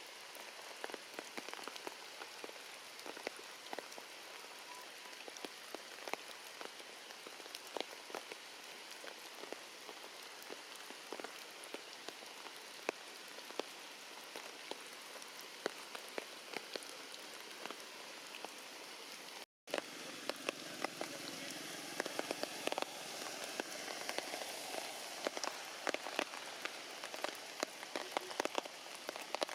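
Heavy rain falling steadily, with many separate drops striking close by as sharp ticks. There is a brief cut about two-thirds of the way through, and the rain is a little louder after it.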